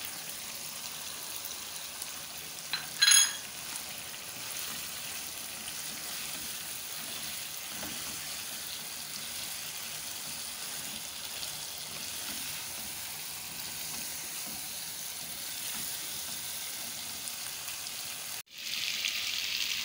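Onions and mutton sizzling steadily as they fry in oil in a pan and are stirred. A single short ringing clink comes about three seconds in, and near the end the sizzle drops out for an instant and comes back louder.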